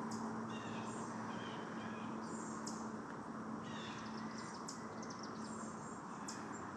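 Songbirds calling: a series of short chirps and quick trilled notes, repeated over a steady outdoor background.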